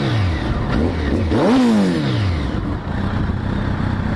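2005 Kawasaki ZX-10's 1000cc inline four-cylinder engine, fitted with a Two Brothers Racing aftermarket exhaust, being revved with throttle blips: a quick blip at the start, a small one just before a second in, and a bigger rev about a second and a half in that falls back to a steady idle.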